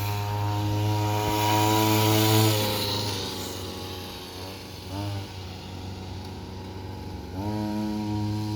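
Mini bike's motor running at a steady pitch. It drops away about two and a half seconds in, surges briefly about five seconds in, and picks back up near the end.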